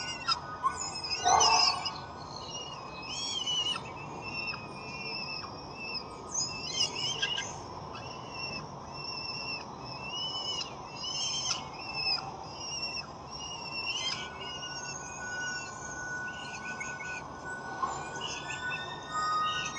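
Peregrine falcons giving short, high chirping calls that rise and fall, repeated every second or so, with a louder burst about a second in.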